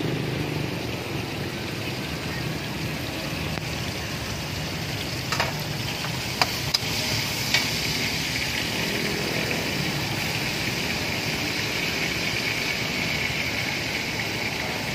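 Beef slices frying in a steel wok, a steady sizzle that grows louder about a third of the way in, with a few sharp clicks of the metal spatula against the pan around the middle. A low steady rumble runs underneath.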